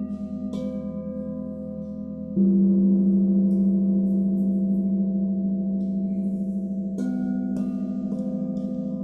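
Singing bowls ringing in a long, wavering sustain of several overlapping tones. A louder low tone comes in about two and a half seconds in. Light mallet strikes add bright overtones about half a second in and again about seven seconds in.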